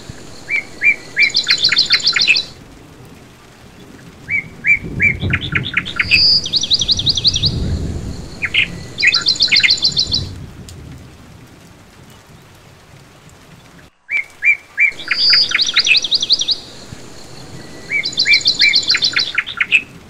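Songbird recording of rapid high chirps and trills, with the same phrase repeating about every nine seconds as a loop. A low rumble sits underneath for several seconds in the middle.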